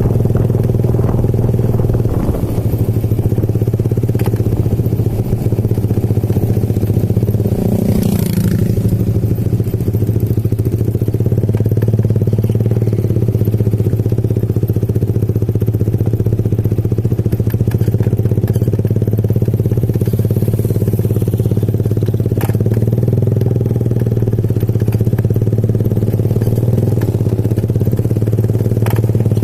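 Motorcycle engine running steadily under way, a constant low drone. About eight seconds in, a brief rushing noise passes over it.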